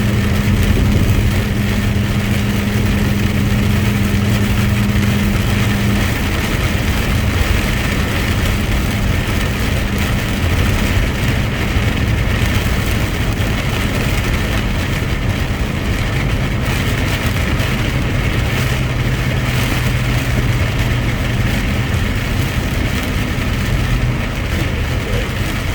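Truck engine running with steady road noise, heard from inside the cab while driving; the engine note drops in pitch about six seconds in.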